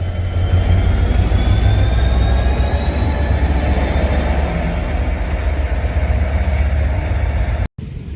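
Diesel locomotive with two Cummins V16 engines running under power as it pulls away, a deep steady engine drone with a faint whine that slowly rises in pitch. The sound cuts off abruptly near the end.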